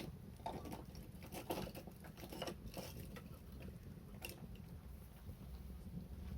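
Wood fire crackling: irregular snaps and pops over a steady low rumble.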